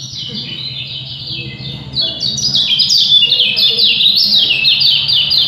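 Caged songbird singing a fast, dense song of short descending chirps, getting louder about two seconds in and breaking off near the end.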